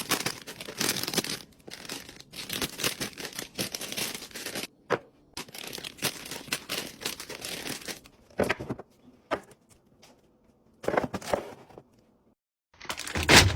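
Plastic packaging crinkling and tearing in stretches of rustling, broken by abrupt cuts to silence. A louder sharp knock comes near the end.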